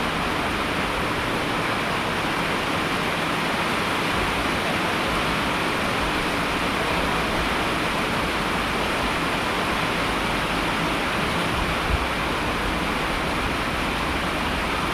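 Steady heavy rain, an even rushing hiss with no let-up. A single soft low thump about twelve seconds in.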